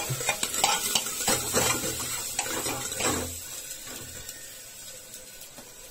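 Onions frying in an aluminium pressure cooker, sizzling and hissing as soy sauce is poured onto the hot oil, with a steel ladle scraping and clicking against the pan. The sizzle eases after about three seconds.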